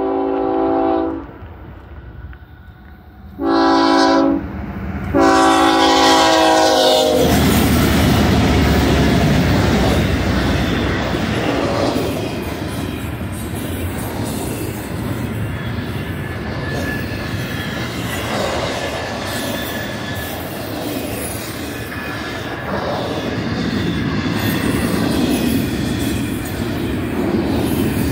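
A BNSF double-stack intermodal train passing close by. The lead locomotive's horn sounds a chord in a long blast, a short one and another long one. Then the GE diesel locomotives go by with a loud rumble, followed by loaded well cars rumbling and clattering over the rails with some wheel squeal.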